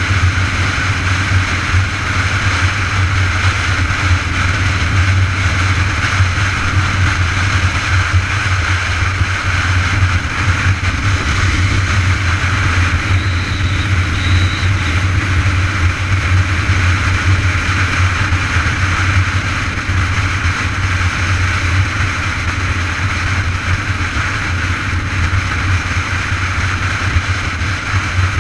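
Steady, loud rumble of wind and road noise on the mic of a moving bike, with no let-up.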